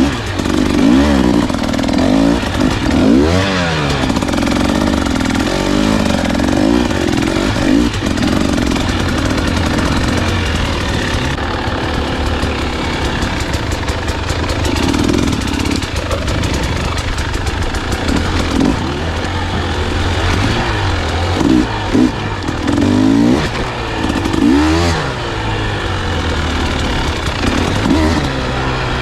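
Dirt bike engine on the move, revving up and down again and again as the throttle is worked, loud throughout.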